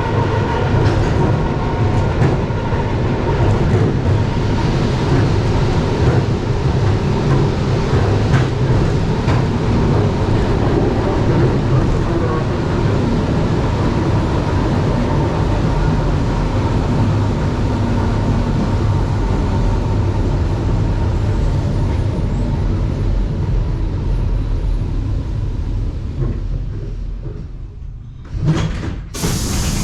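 Suburban electric train heard from inside the carriage: a steady rumble of wheels on the rails with occasional knocks, dying down as the train comes to a stop near the end. Then the doors open with loud hissing and sliding bursts.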